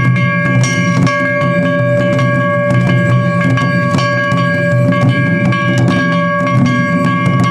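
Japanese festival percussion music: drums with rapid sharp strikes over a steady held tone, the kind of accompaniment played for a shishimai lion dance.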